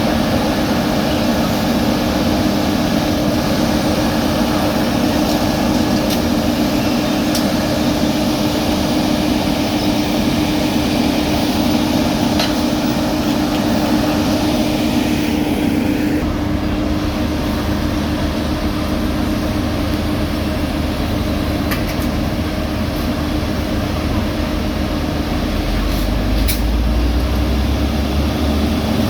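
Heavy diesel road-paving machinery running steadily with a constant engine hum. About halfway through the sound changes, and a deeper rumble rises near the end.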